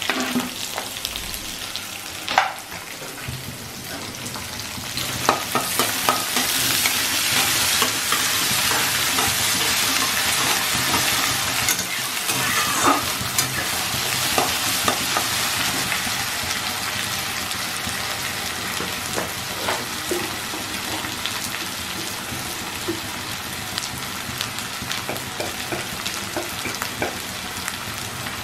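Chopped onion, ginger, curry leaves and cumin sizzling in hot mustard oil in a steel kadhai, getting louder a few seconds in. A flat metal spatula stirs them, with occasional scrapes and taps on the pan.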